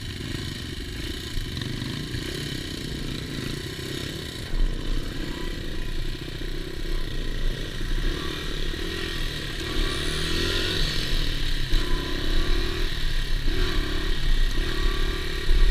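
Dirt bike engine running and revving, with short repeated rises and falls in pitch through the second half.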